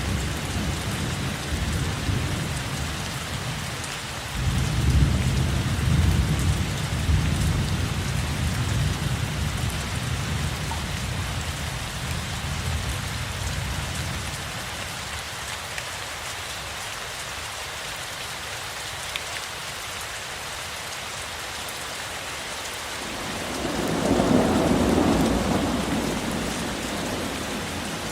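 Steady rain with rolling thunder: a deep rumble through the first half, strongest about five seconds in, then another louder roll of thunder about twenty-four seconds in.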